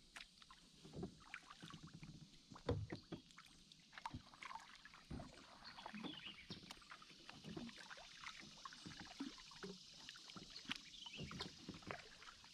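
Faint, irregular small splashes and knocks of shallow river water being moved through, with the odd rock or hull tap.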